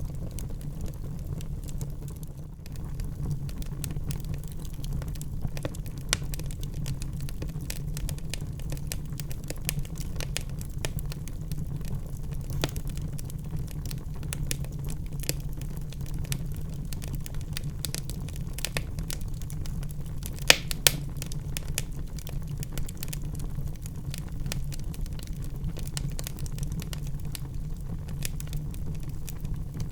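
Wood fire burning in a fireplace, crackling steadily over a low rumble from the flames, with two loud pops about two-thirds of the way through.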